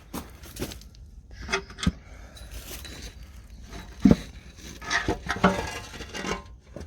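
Irregular scrapes, clinks and knocks of small metal parts and tools being handled, with one sharp knock about four seconds in.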